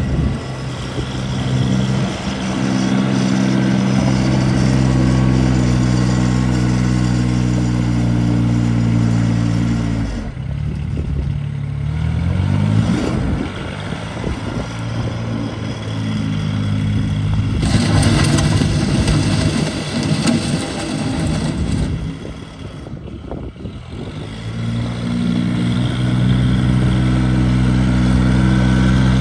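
Rural King RK19 compact tractor engine running steadily. About ten seconds in it drops in pitch, then climbs back up, followed by a louder, noisier stretch of several seconds. It briefly dips, then settles back to steady running.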